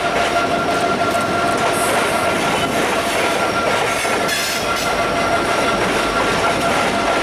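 Freight train rolling past, loud and steady: cars running over the rails with a continuous high, thin squeal from the wheels. About four and a half seconds in there is a short hiss.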